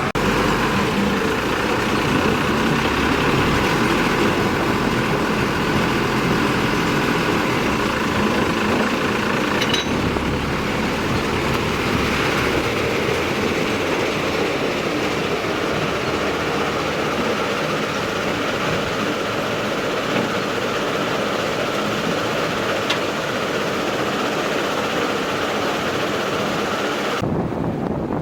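Diesel engine of heavy earthmoving machinery running steadily. The engine sound breaks off abruptly about a second before the end.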